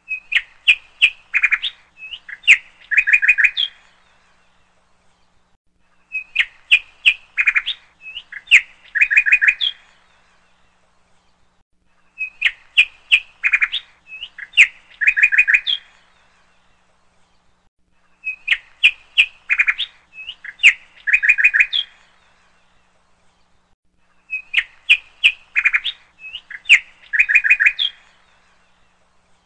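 Bird song of quick, high chirps, a phrase of about four seconds repeating identically every six seconds with a short pause between: a looped bird-song recording.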